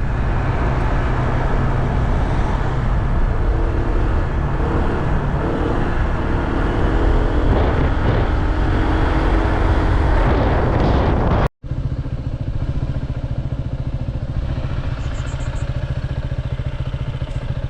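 Motorbike engine running under way, with heavy wind rumble on the microphone. The sound drops out for a moment about two-thirds of the way through and returns quieter and steadier.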